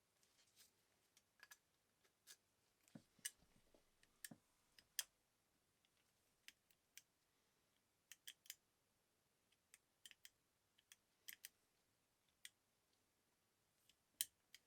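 Scattered light clicks and taps at irregular intervals, several in quick pairs, of the kind made by small tools and metal parts being handled at a workbench.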